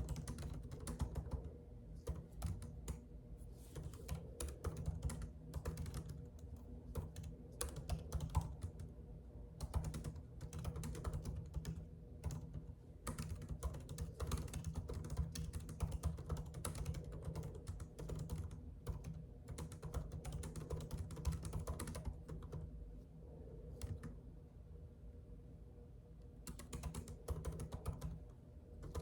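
Typing on a computer keyboard: quick runs of key clicks with short pauses, thinning out for a few seconds about three-quarters through. A steady low hum runs underneath.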